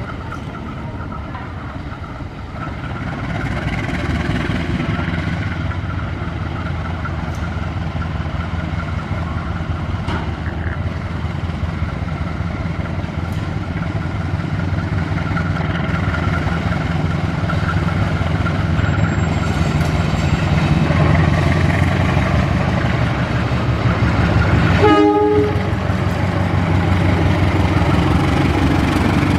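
Diesel locomotive engine running steadily and growing louder, with a brief horn blast near the end.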